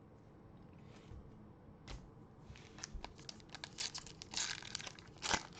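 A trading card pack's wrapper being torn open and crinkled, in a run of crackling rips that grow louder over the second half.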